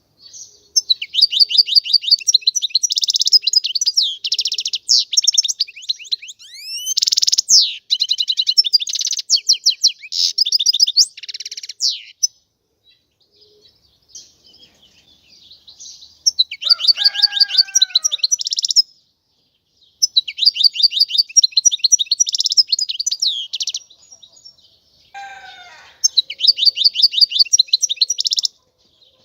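European goldfinch singing: phrases of rapid, high twittering trills with short pauses between them, and a longer gap after the first long phrase.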